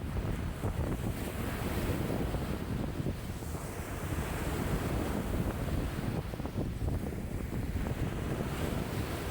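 Choppy lake waves splashing and washing in a strong wind of about 5 m/s, a continuous rushing noise, with wind buffeting the microphone as a low, fluttering rumble.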